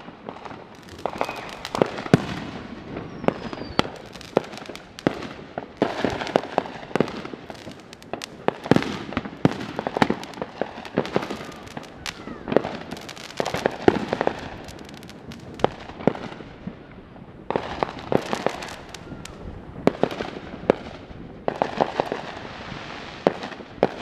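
Many fireworks and firecrackers going off at once: a dense, irregular run of sharp bangs and crackling, several a second at times, with echoes trailing after the louder ones.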